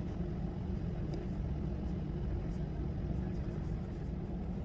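Steady low rumble and hum inside the cabin of an Airbus A319 on the ground after landing, its engines running as it taxis to the gate.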